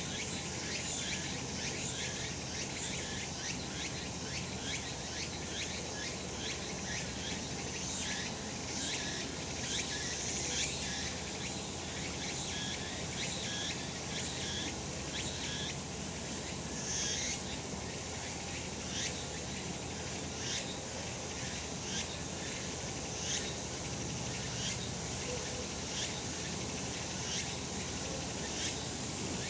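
Cicadas singing in a steady chorus: a dense, high buzzing made of many short calls overlapping.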